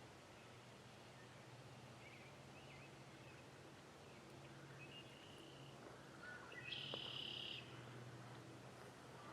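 Quiet rural field ambience with faint, scattered songbird chirps and a short, higher buzzy trill about seven seconds in.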